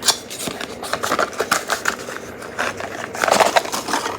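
Plastic toy packaging being handled and torn open: a steady run of crinkles, crackles and small clicks, busiest about three seconds in.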